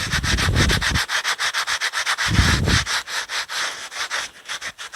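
Fabric mitten rubbed briskly back and forth over fresh brickwork, wiping off smeared clay mortar: a fast, scratchy rubbing in quick, even strokes.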